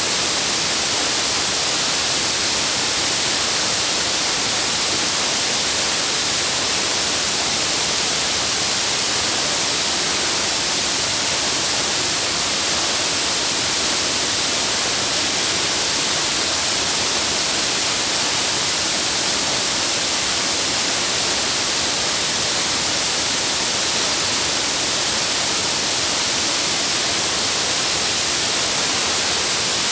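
Waterfall: a steady, unbroken rush of falling water, loudest in the hiss range.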